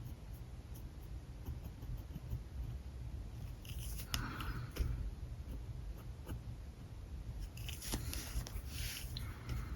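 Alcohol marker tip scratching across paper in two spells of short strokes, about four seconds in and again near the end, with a few sharp clicks, over a low steady hum.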